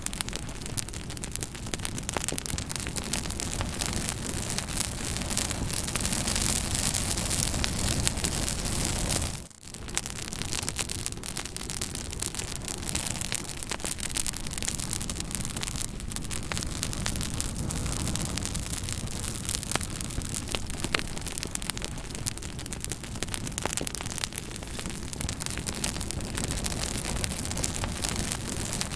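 Fire crackling, with many sharp pops scattered over a steady hiss. The sound briefly drops away about nine and a half seconds in, then carries on.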